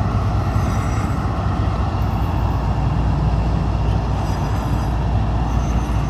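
Freight train of empty auto rack cars rolling past, a steady loud rumble of wheels on rail.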